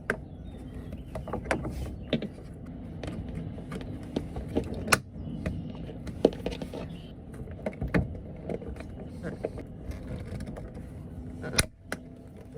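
Hands working plastic fittings behind a Dometic RV toilet, trying to release and slide out its water valve: scattered small clicks and knocks of plastic and tools, with two sharper knocks about five seconds in and near the end.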